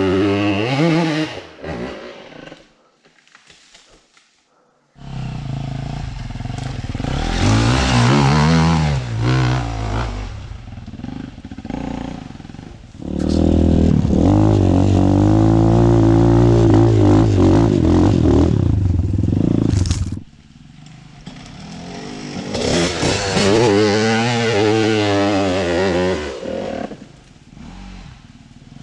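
Off-road dirt bike engines revving up and down and labouring on forest trails. There is a quiet gap a couple of seconds in, then long stretches of high revs, held loud and steady through the middle.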